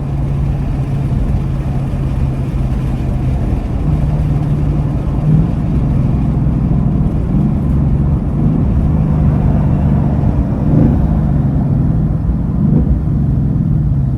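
Ford Mustang GT's 5.0-litre Coyote V8 running at a mostly steady engine speed while driving, its exhaust drone holding a low even note, with a few brief rises in pitch in the second half.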